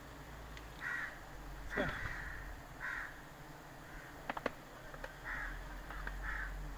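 A bird calling outdoors: short calls repeated about once a second, five in all, with a couple of sharp clicks about four and a half seconds in.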